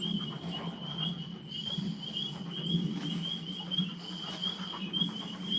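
Tree frogs calling in a steady chorus: a continuous high, rapidly pulsing trill.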